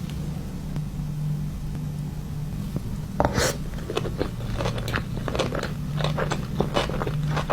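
Close-miked ASMR eating of sushi: crunchy bites and quick chewing clicks begin about three seconds in and keep going, over a steady low hum.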